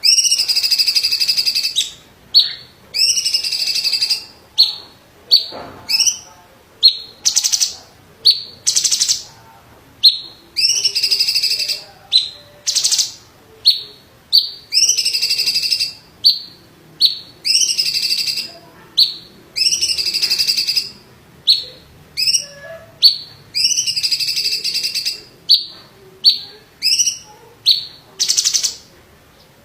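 A blue-winged leafbird (cucak cungkok) singing without a break, a loud, fast string of short, sharp notes alternating with longer phrases of about a second that bend in pitch.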